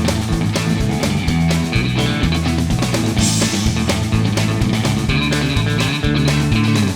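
Instrumental break of a country-rock song: electric guitars and bass over a steady drum beat, with no singing.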